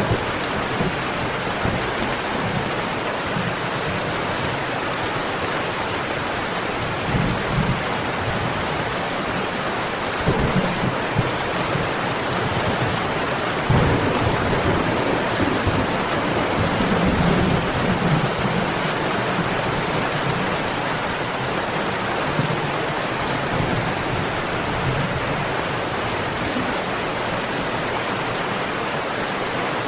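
Steady rain, with low rumbles of thunder rolling in a few times, the longest in the middle.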